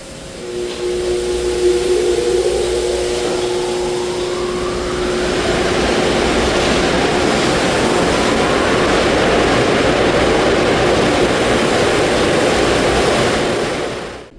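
Car wash tunnel dryer blowers spinning up: a rising whine over the first few seconds as a loud rush of air builds, then holding steady before cutting off suddenly near the end.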